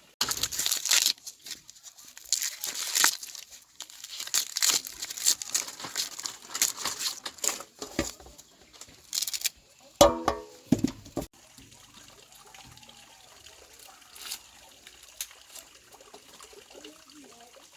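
Irregular crinkling and rustling, a rapid run of dry crackles through the first ten or so seconds, then a short pitched voice-like sound about ten seconds in, after which it goes quieter.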